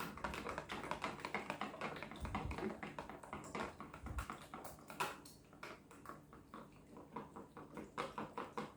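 Eggs with salt and pepper being whisked by hand in a bowl: a run of quick light clicks as the whisk strikes the bowl, thinning out about halfway through.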